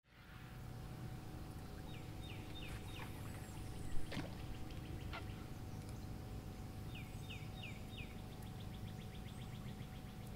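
A songbird singing: a few slurred notes followed by a rapid trill, twice, over a steady low rumble. A brief sharp sweeping sound about four seconds in is the loudest moment.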